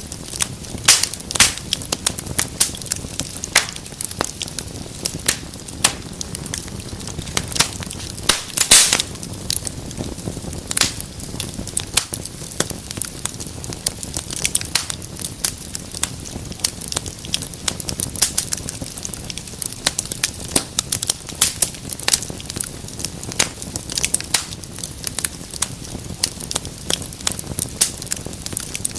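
Wood fire burning in a fireplace, crackling with frequent sharp pops and snaps over a steady low rumble of the flames; one louder pop about nine seconds in.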